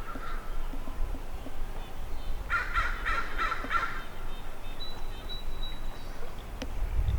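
Outdoor birdsong: a bird calling four times in quick succession, about two and a half seconds in.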